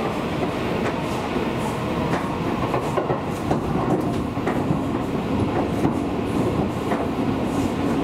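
Seibu Railway electric train running along the track: a steady rumble of wheels on rail, with a few faint, irregularly spaced clicks over the rail joints.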